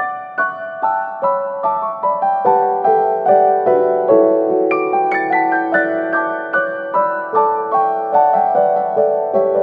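Background piano music: a slow melody of single struck notes, about two a second, over sustained chords.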